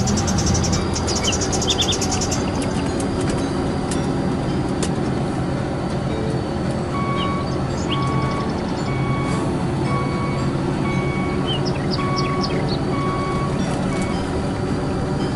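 Truck engine running steadily after a brief rise in revs at the start. From about halfway through, a reversing alarm beeps at an even pace, roughly one beep every 0.7 seconds.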